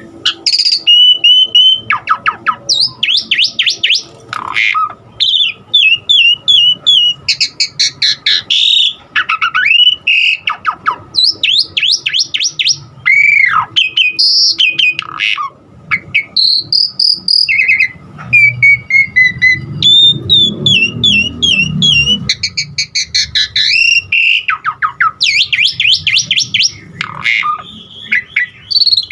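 Asian pied starling (jalak suren) singing a long, varied song: a nearly unbroken stream of whistles, rapid runs of repeated downward-sweeping chirps and short trills, with mimicked 'isian' fill-in calls.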